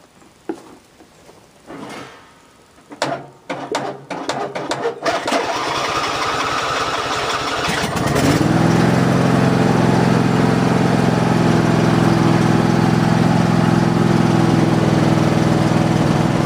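A few clicks and knocks, then a 2002 lawn mower's engine is cranked by its electric starter for about three seconds and catches about eight seconds in, settling into a steady run. It is being started off a portable jump starter after sitting all winter with its battery out.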